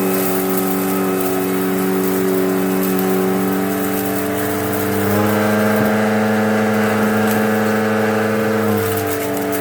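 Eureka Whirlwind LE bagless upright vacuum with a 12 amp motor, running on carpet with a steady motor whine. Its pitch steps up about five seconds in and drops back near the end. Faint crackles come from debris being sucked up.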